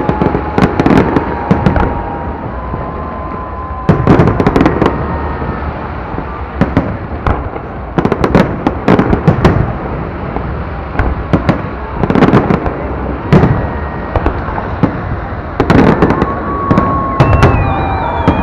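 Fireworks display going off: a dense, irregular run of booming bursts and crackles, many in quick succession, with a few thin whistling tones among them.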